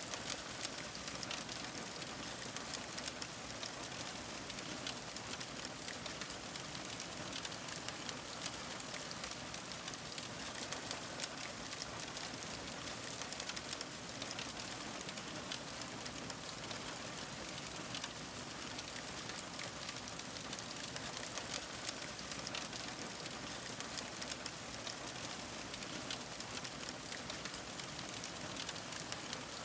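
Fire crackling: a steady hiss dotted with many small, sharp pops and snaps.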